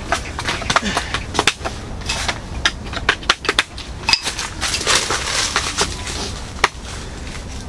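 Lightweight folding camping cot being assembled: a series of sharp plastic and metal clicks and knocks as its legs and poles are snapped into their fittings. There is a brief rustle about five seconds in.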